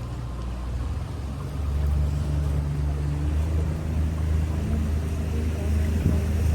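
River boat's engine running steadily under way, a low hum that shifts in pitch and grows a little louder about a second and a half in.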